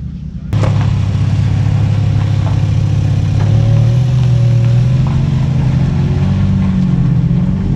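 Car engine running steadily; it comes in suddenly about half a second in and its pitch rises near the end.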